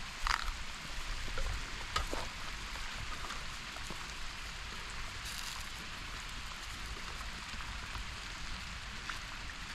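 Steady rain falling, an even hiss with a few sharp drop taps, one near the start, one about two seconds in and one near the end.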